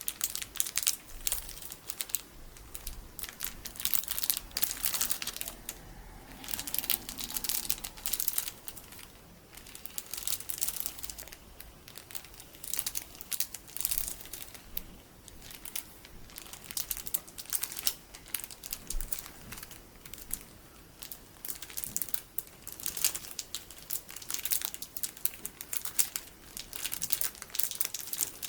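Plastic packaging of colourful sticky beads crinkled and squeezed by hand: dense, sharp plastic crackling that comes in waves every second or two with brief lulls between.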